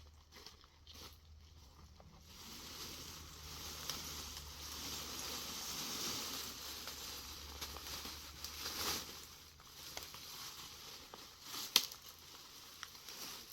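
Rustling, crackling handling noise with scattered small clicks, swelling in the middle, and one sharp click near the end.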